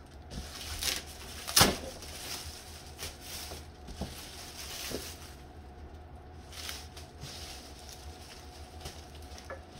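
Cardboard box and packaging being handled, with a few sharp knocks and taps, the loudest about a second and a half in, over a steady low hum.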